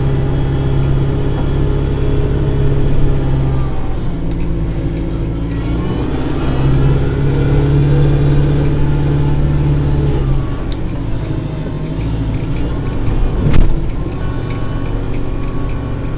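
Kubota diesel tractor engine running steadily under load while snow blowing, its pitch shifting a few times as the load changes. A single sharp knock sounds about three seconds before the end.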